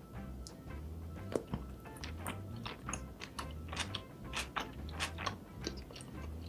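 Close-miked biting and chewing of chewy spicy rice cake and fish cake: irregular mouth clicks and smacks, a few a second, over soft background music with a repeating low pattern.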